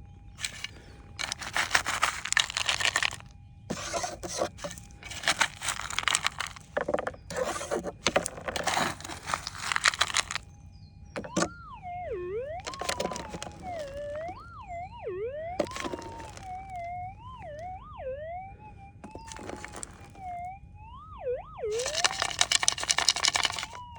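Pick scraping over gravelly schist ground in repeated bursts while the Minelab GPX 6000 detector holds a faint steady threshold tone. From about halfway in, the detector's audio wavers up and down in pitch without a break, with a few more bouts of scraping between.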